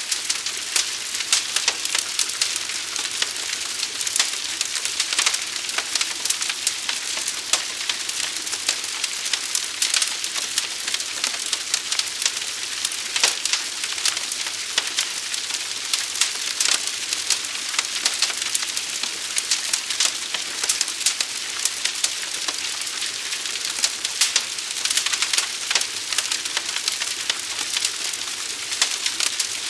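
A fire burning steadily: a dense, unbroken crackling and popping over a constant hiss.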